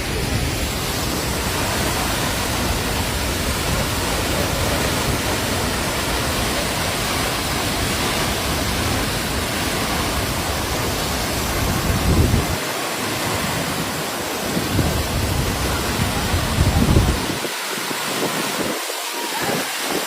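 Steady rushing of Madhabkunda waterfall in strong, rising flow. In the last third, a few low buffets of wind hit the microphone.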